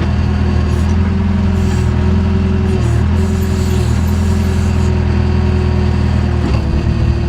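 JCB backhoe's diesel engine running steadily, with a thin steady whine above the engine drone and small dips in pitch about three and six and a half seconds in.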